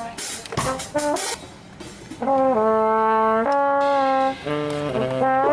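Brass instruments playing music: a few short notes with percussive hits, then long held notes, the first slid into, and lower held notes near the end.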